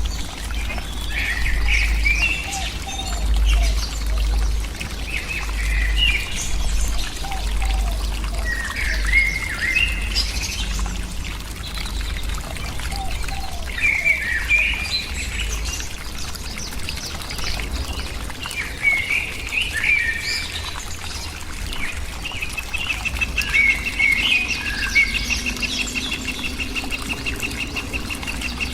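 Birds calling in short chirping phrases every few seconds, joined near the end by a fast, even trill, over a steady low rumble.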